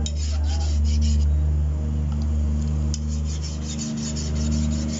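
A bolo knife being sharpened: repeated scraping strokes of the blade, coming thicker and faster in the second half, over a steady low rumble.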